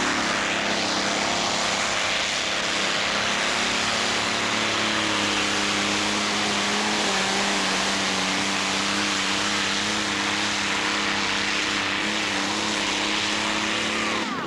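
Allison V12 aircraft engine in a pulling tractor running hard under load, a loud steady engine note that shifts slightly in pitch about halfway through.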